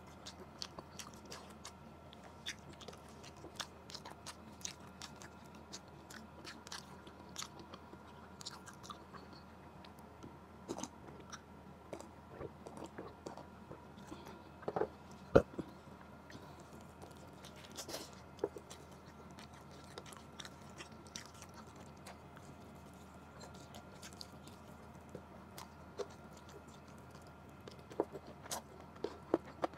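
Close-miked eating sounds: a person biting and chewing adobo chicken drumstick meat, with small wet clicks and smacks scattered throughout. One sharp knock stands out about halfway through, and a few louder clicks come near the end.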